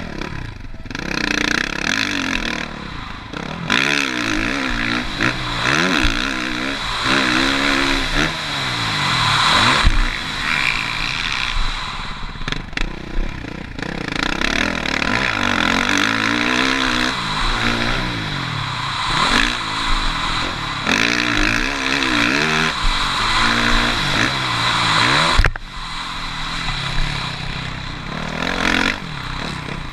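Suzuki RM-Z450 450cc single-cylinder four-stroke motocross engine revving up and falling back again and again as the bike accelerates, shifts and slows around a dirt track. There are two sharp knocks, one about ten seconds in and one near the end.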